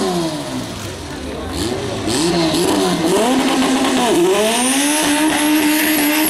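Car engine revving hard: the engine note falls, rises and falls several times, then climbs about four seconds in and is held high and steady, with a thin high whistle rising alongside.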